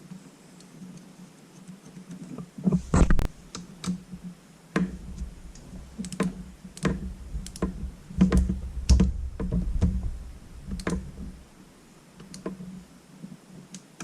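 Irregular metallic clicks and clinks of small bolts and hand tools being handled and started into an engine's cylinder head, with some dull knocks between them. Busiest from a few seconds in until near the end.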